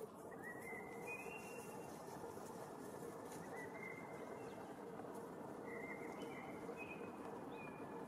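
Faint bird calls: short, thin whistled notes, about six of them spread over the seconds, above a steady outdoor background hiss and a low hum.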